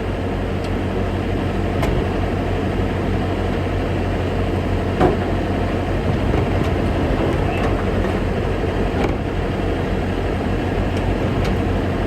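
Semi truck's diesel engine idling steadily with a low hum, with a few faint clicks and knocks over it, one a little louder about five seconds in.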